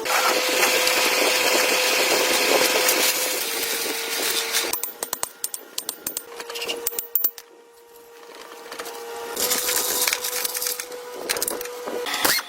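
A power tool running with a steady hum beneath, stopping about five seconds in for a stretch of light clicks and taps, then running up again later on.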